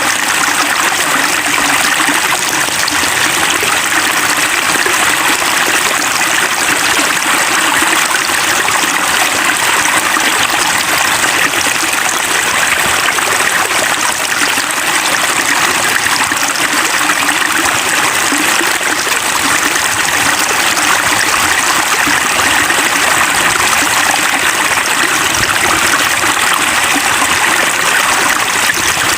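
Steady rush of running, splashing water, loud and unchanging, like heavy rain or a stream.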